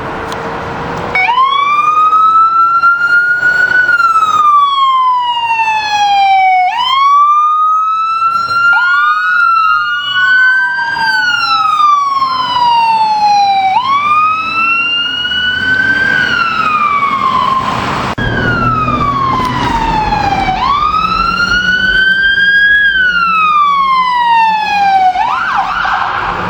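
Emergency vehicle siren sounding a wail, each cycle rising quickly and then falling slowly over about three seconds, with a second siren overlapping for a moment around ten seconds in. A vehicle engine runs underneath in the second half.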